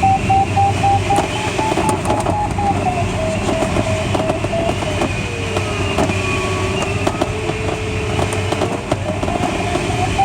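Glider audio variometer in the cockpit of a Schleicher ASK21: quick beeps at a wavering pitch, which signal rising air, give way about five seconds in to a continuous lower tone that dips and rises, the sink tone, before the beeping returns higher in pitch near the end. Underneath runs steady airflow noise with light rattling of the cockpit.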